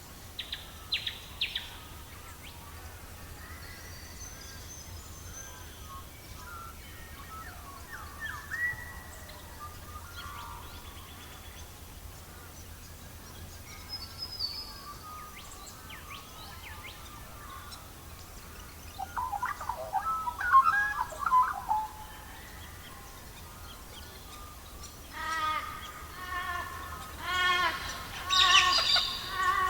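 Birds chirping and calling at intervals over a faint steady low hum. About two-thirds of the way in comes a louder cluster of calls, and near the end a loud run of quickly repeated calls.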